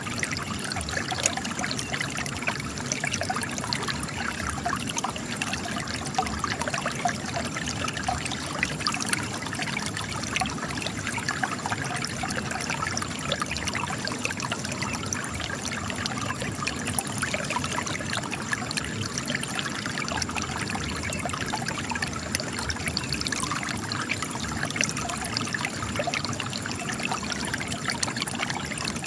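Spring water trickling and splashing steadily out of cracks in rock, a continuous busy patter of small drops and rivulets.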